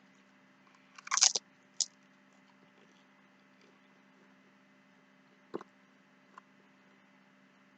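A bite of food crunching about a second in, with a shorter crunch just after, then two faint clicks over a low steady hum.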